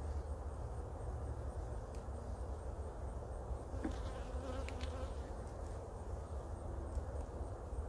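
Many honey bees buzzing around their hive in a steady drone, the colony stirred up by the hive being worked, with a few light clicks partway through.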